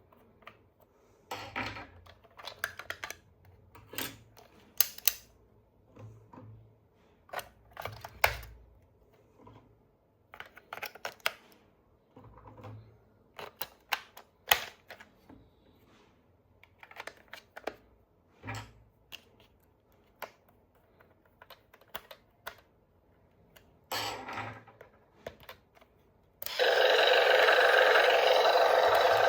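Irregular clicks, taps and rustles of plastic toy parts and packaging being handled. Near the end a loud, steady sound starts abruptly and keeps going.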